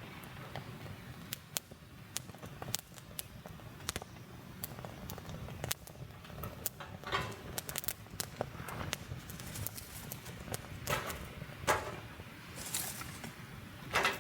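Wood campfire crackling with many sharp pops, and a few louder rustling or scraping noises now and then.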